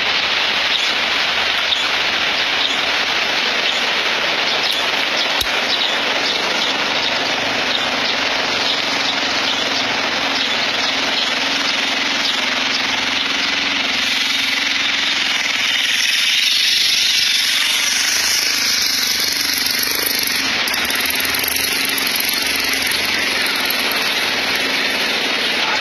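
Loud, steady rushing of water, with a faint low hum running through the middle stretch.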